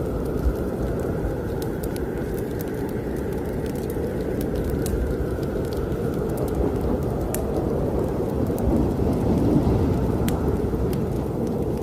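Snowstorm wind blowing in a steady low rush, swelling a little about nine seconds in, with scattered sharp crackles and pops from a wood fire in a fireplace.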